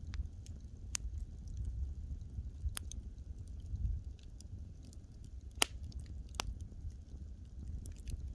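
Burning wood crackling, with scattered sharp pops, the loudest about two-thirds of the way through, over a low steady rumble.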